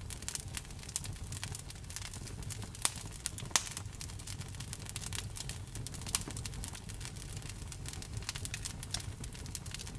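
Wood fire burning, with many irregular crackles and pops over a low steady rumble. The two sharpest pops come about three and three and a half seconds in.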